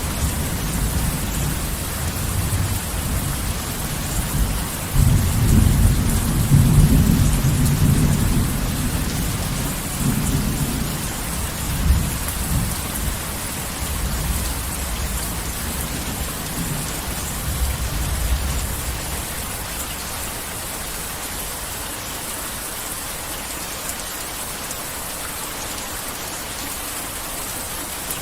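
Heavy rain falling steadily, with a long roll of thunder that swells about five seconds in, is loudest around six to eight seconds, and rumbles away over the next ten seconds, leaving only the rain.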